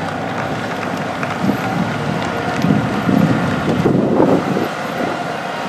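Several motorcycles running steadily at low speed in formation, swelling a little in the middle, with wind buffeting the microphone.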